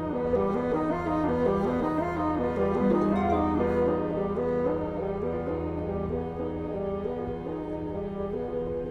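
Contemporary chamber music for solo bassoon and small ensemble (flute, clarinet, harp, piano, violin, viola, cello): a low wind line moves in steps over sustained low string notes.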